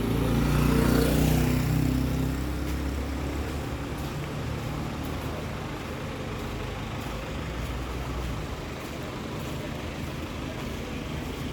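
A motor vehicle's engine passes close by, loudest in the first two seconds, and its low rumble fades away into steady street traffic noise.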